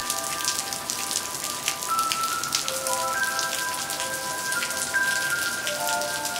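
Heavy rain pouring down, countless drops pattering on the wet balcony floor and ground in a dense, even hiss. A melody of held notes plays over it.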